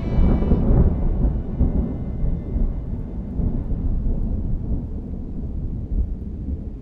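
A long, low rumble of thunder, loudest in the first second and then slowly fading away.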